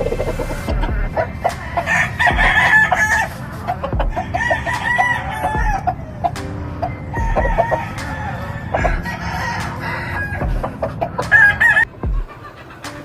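Gamefowl roosters crowing, several crows one after another and overlapping, with hens or birds clucking between them.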